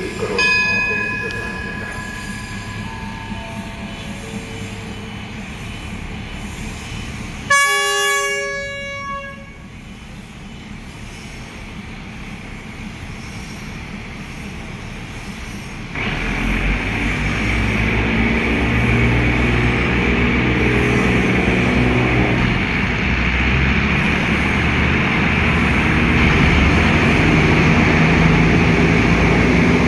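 A diesel railcar train sounds its horn in one loud blast of about two seconds, then its engine and wheels rumble louder and louder as it pulls in along the platform. A short run of falling tones comes before the horn.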